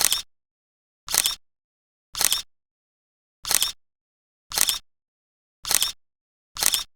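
Camera shutter firing seven times, about once a second, each a short sharp click-clack with dead silence between.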